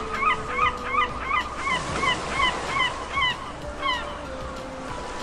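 Geese honking in a quick run of repeated calls, about three a second, that ends about four seconds in.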